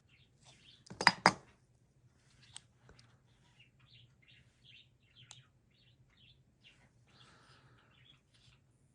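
Small parts of a refillable slide gas lighter being handled and worked apart: a run of light clicks, scrapes and squeaks, with two sharp clicks close together about a second in.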